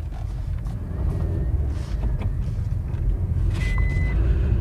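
Cabin noise of a Maruti Vitara Brezza with its 1.5-litre petrol engine on the move: a steady low rumble of engine and road, with a few light knocks. About three and a half seconds in, a high electronic beep starts, repeating about once a second.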